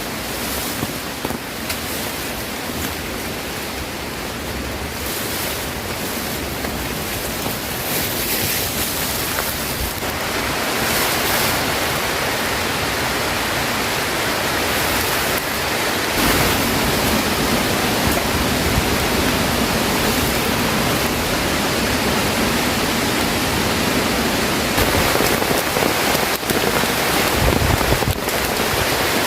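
Heavy rain falling, a steady hiss that grows louder about ten seconds in and again around sixteen seconds.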